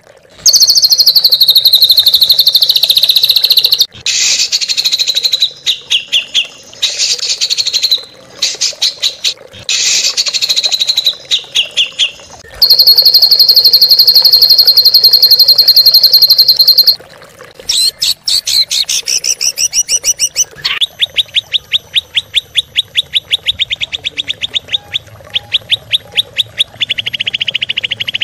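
Songbirds singing loudly: rapid high trills, some held for several seconds, and quick repeated chirping phrases, typical of a masteran song-training recording.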